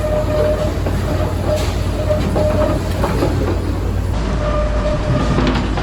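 Steady machinery running with a deep hum and scattered clattering, over which a short repeating beep sounds on and off, typical of quayside unloading gear.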